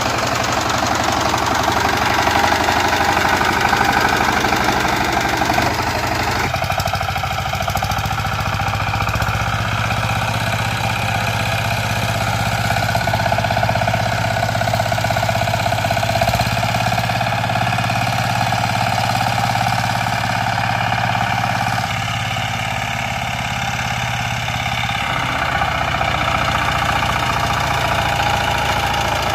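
Power tiller engine running steadily, its tone shifting a few times, about six seconds in and again near the three-quarter mark.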